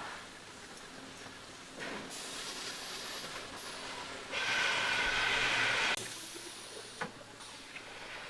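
A hiss that starts about two seconds in, grows much louder for about a second and a half with a faint steady tone inside it, then cuts off suddenly.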